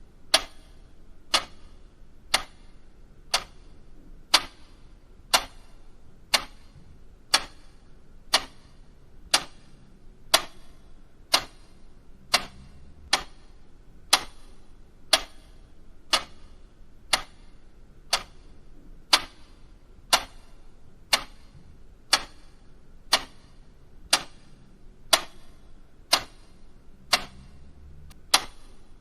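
A clock ticking steadily, about one sharp tick a second, used as a countdown timer for answering a quiz riddle.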